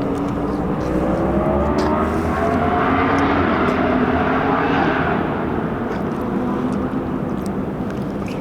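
A motor vehicle's engine pulling away and rising in pitch as it accelerates, growing louder to a peak about four seconds in and then fading as it moves off.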